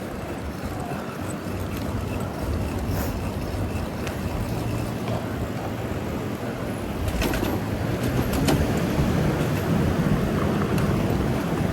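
City street traffic: a steady low rumble of vehicles that grows louder about two-thirds of the way through, with a few short clicks.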